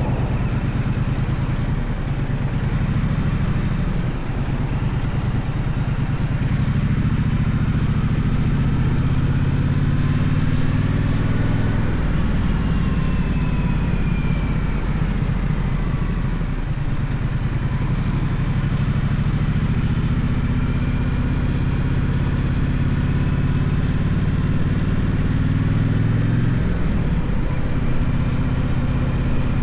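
Gaokin GK1200 motorcycle engine running steadily while riding. Its pitch rises and eases off several times as the rider accelerates and rolls off the throttle.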